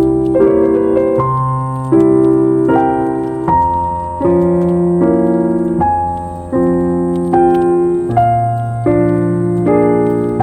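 Background piano music: slow, calm chords struck about once a second, each ringing and fading before the next.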